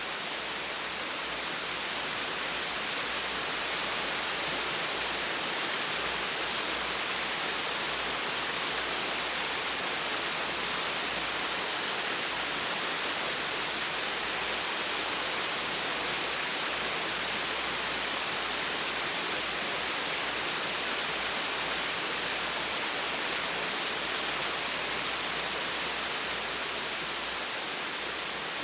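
Gentle waterfall: a steady, even rush of falling water.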